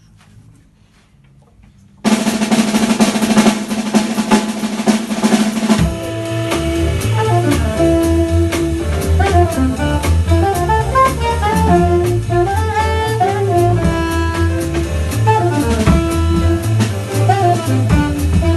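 Jazz band tune starting up: after about two seconds of quiet, a loud drum roll and cymbals come in over a held note, and about six seconds in the full band joins with bass line, drums and melody.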